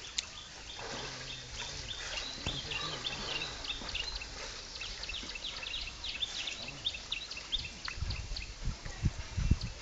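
Small birds chirping in many short, high, repeated calls, with a few low thumps near the end.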